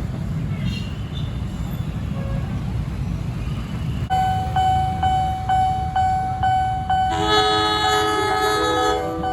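A train rumbling past. From about four seconds in, a warning bell dings about twice a second. About seven seconds in, a locomotive's multi-note horn sounds for about two seconds.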